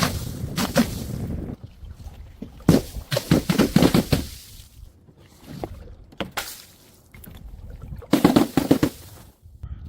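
Glass bottles smashing in several bursts of crashing, clattering breaks, with louder bursts about three seconds in and near the end.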